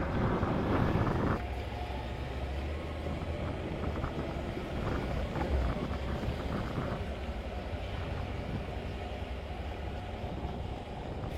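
Motorcycle riding along a road: engine and wind rush over the rider's microphone, easing off a little about a second and a half in.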